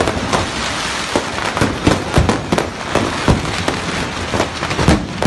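A burning stock of fireworks going off uncontrolled: a dense, unbroken crackle with sharp bangs at irregular intervals, often two or three a second.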